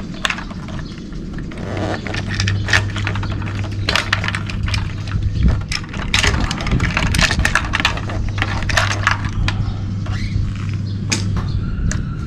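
Repeated metallic clicks, clinks and knocks of parts and tools being handled as a water heater is taken apart, over a steady low hum.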